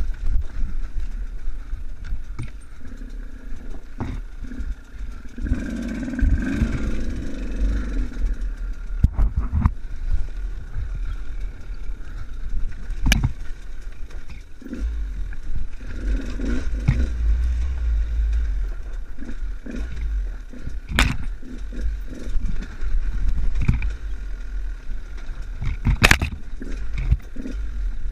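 Enduro motorcycle being ridden off-road: the engine runs under a heavy low rumble and revs up a couple of times, with frequent sharp knocks and clatter from the bike over rough ground.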